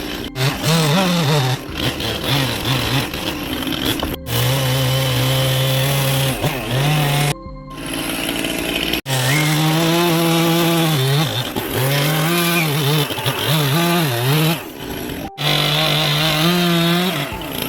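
Chainsaw carving wood, its engine pitch rising and falling again and again with the throttle, broken off abruptly several times.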